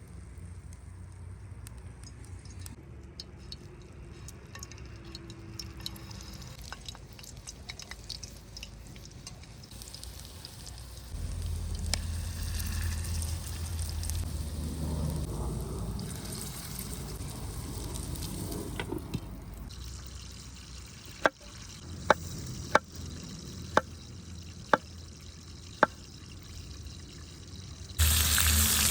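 Outdoor cooking sounds: quiet handling and liquid sounds, then six sharp taps about a second apart, and near the end food hitting a hot pan and starting to sizzle loudly.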